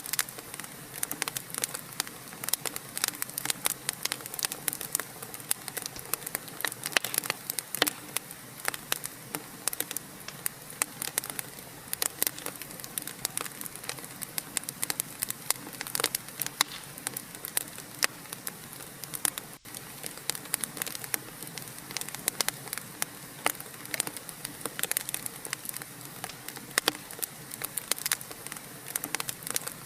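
Wood fire crackling, with many sharp irregular pops over a steady hiss. The sound cuts out for an instant about two-thirds of the way through.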